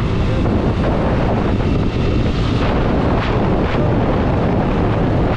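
Motorcycle at speed, around 80 km/h: steady wind noise on the rider's microphone over the running engine.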